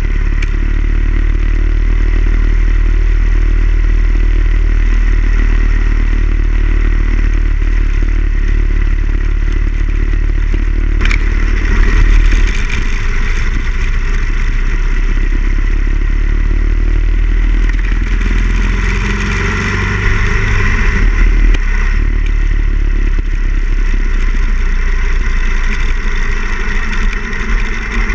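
Harley-Davidson Ironhead Sportster XL1000's air-cooled V-twin running steadily under way, with rushing noise over the microphone. It gets briefly louder about twelve seconds in and again about twenty seconds in, and there is a single sharp click shortly before the first swell.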